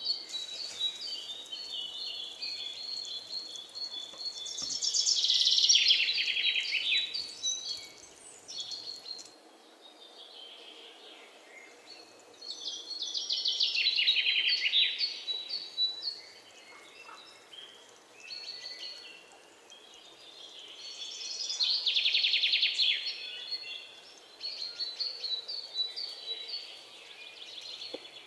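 Birds chirping, with fast buzzing trills that swell up and fade about every eight seconds: outdoor birdsong and insect-like ambience.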